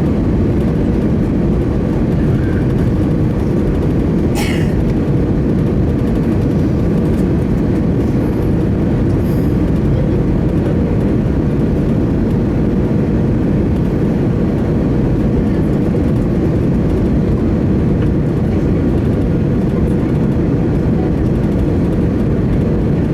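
Steady roar of engine and airflow noise inside the cabin of an Airbus A319 in flight, with a faint steady hum. A brief high-pitched sound comes about four and a half seconds in.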